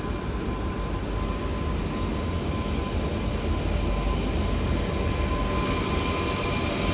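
Empty passenger train departing and rolling past, a steady low rumble with a thin steady whine; a second, higher whine joins about five and a half seconds in.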